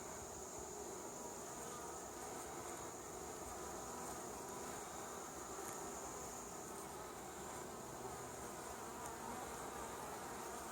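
Honey bees buzzing around a hive entrance: a soft, steady hum of many bees.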